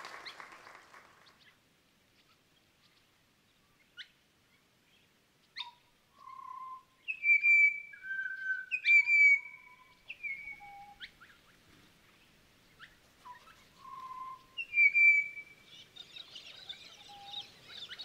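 Birds calling with clear whistled notes held at several different pitches, broken by sharp upward flicks, from about four seconds in. A dense, high-pitched hiss of natural sound comes in near the end.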